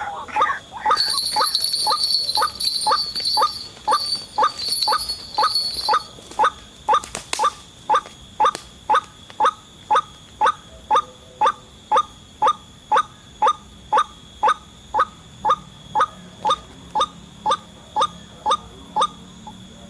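White-breasted waterhen (ruak-ruak) giving its monotonous repeated call: short clipped notes at about two a second, kept up steadily throughout. A faint high insect-like buzz sounds over the first few seconds.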